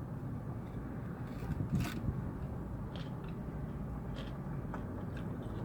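Faint chewing and mouth clicks over a steady low hum inside a car cabin.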